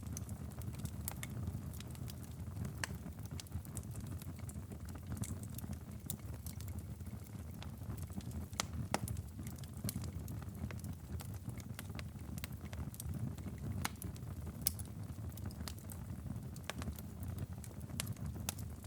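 Wood fire in a fireplace, crackling with sharp pops at irregular intervals over a low steady rumble.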